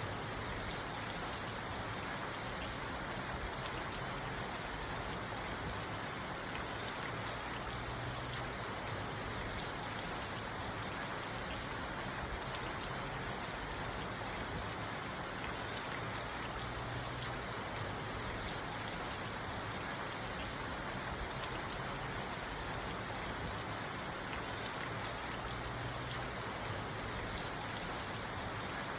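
Steady rain drumming on a parked car's roof and windows, heard from inside the car as a dense patter of drops with no thunder.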